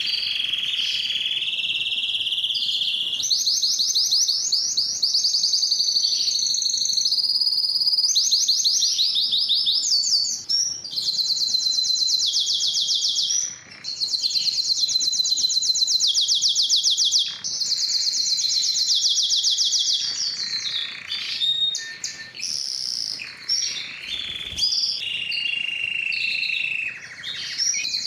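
Spanish timbrado canary singing: a continuous song of fast trills and rolls, each phrase a rapid run of repeated notes, switching to a new phrase every few seconds.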